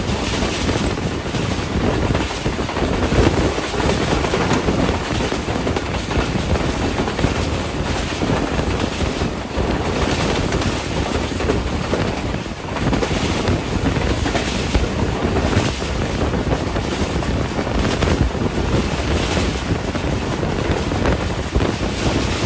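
Passenger train coach running at speed, heard from an open window: the steady rumble and clatter of its wheels on the rails mixed with wind buffeting the microphone.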